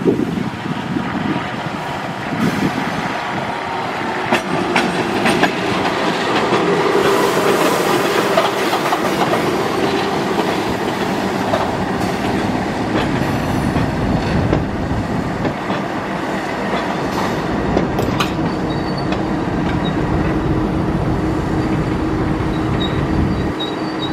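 Passenger train hauled by a CC 206 diesel-electric locomotive passing close by: the locomotive's engine running as it goes past, then the coaches rolling by with their wheels clacking over the rail joints.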